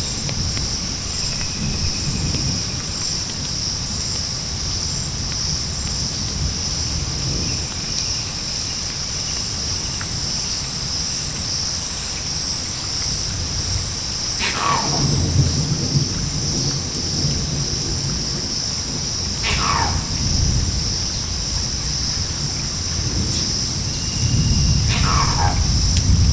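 Tropical rainforest ambience: a steady, high, pulsing insect chorus over a low rumble like distant thunder and rain. Three long falling calls sound about five seconds apart, the first around halfway through.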